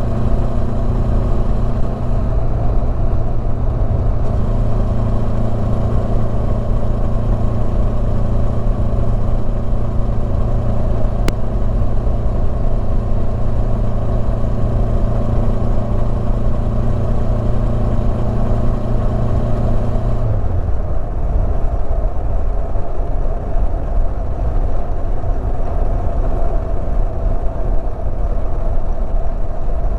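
Honda CB500X's parallel-twin engine running at a steady speed under way, over a low rumble of wind noise. About twenty seconds in, the engine note drops in pitch and fades as the throttle is closed, leaving mostly the wind rumble.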